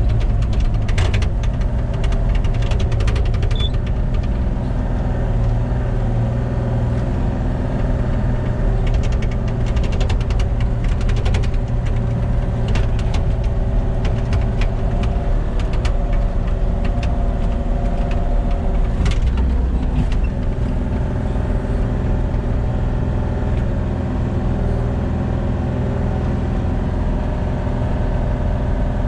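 Engine running steadily, with scattered sharp clicks and clanks over it.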